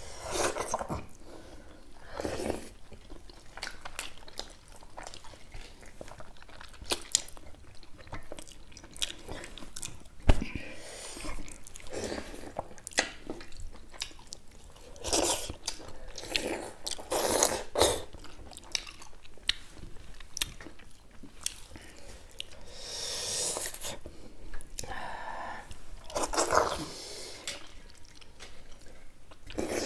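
Close mouth sounds of two people eating millet dhido and chicken curry with their hands: irregular chewing and smacking with occasional crunches, a few louder bites standing out.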